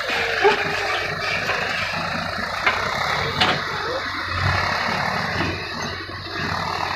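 Diesel engine of heavy machinery running steadily at low speed, with a few sharp knocks.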